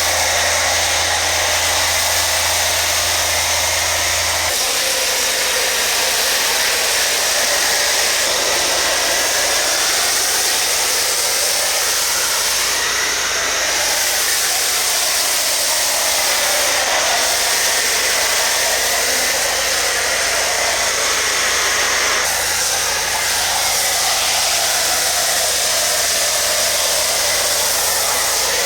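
Steady rushing noise of a motor-driven machine, with a faint whine that wavers up and down in pitch. A low hum drops away about four seconds in and returns about twenty-two seconds in.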